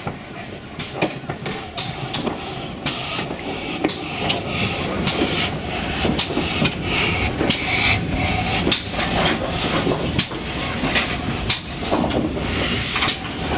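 Steam train: steam hissing, with many sharp clicks and knocks scattered through it, getting gradually louder, and a stronger burst of hiss near the end.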